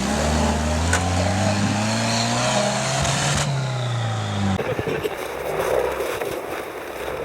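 Off-road vehicle engine revving under load, its pitch climbing for about two and a half seconds and then falling. It cuts off suddenly about four and a half seconds in, and a rough, noisy rumble without a clear engine tone follows.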